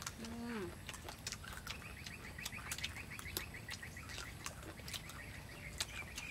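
Crisp crunching and chewing of raw green mango slices, a run of sharp bite clicks throughout. A short vocal sound comes near the start, and a bird chirps in a rapid high trill from about two seconds in.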